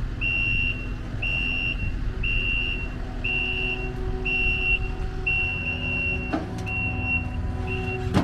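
Kubota SSV75P skid steer backing up: its reverse alarm beeps about once a second over the low, steady run of its diesel engine. There is a short knock about six seconds in.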